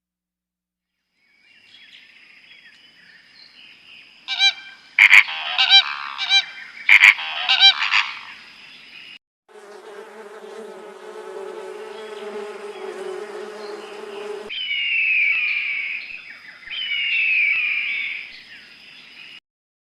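A run of different animal calls: loud, sharp calls repeated several times, then a steady buzzing for about five seconds, then two falling whistled calls.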